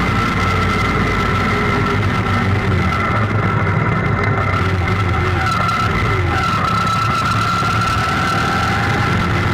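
Motorcycle engine running at a steady pace while riding.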